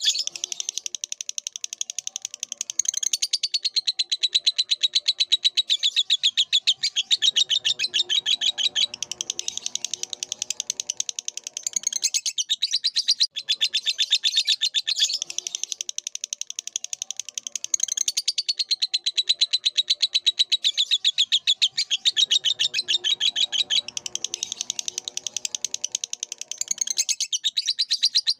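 A lovebird sings a long, fast, unbroken chattering trill of high chirps. The same phrase comes round again about every 15 seconds, with fainter lower warbling underneath at times.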